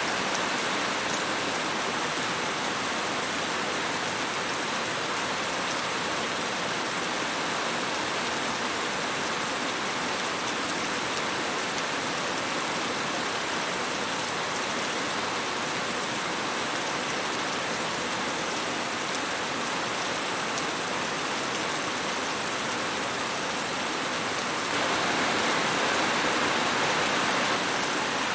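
Steady rain falling, an even hiss of many drops landing on a surface. It grows slightly louder near the end.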